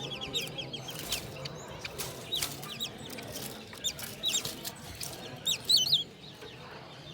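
Many small cage birds calling: short, sharp, high chirps scattered throughout, with a louder quick cluster of calls a little before the end.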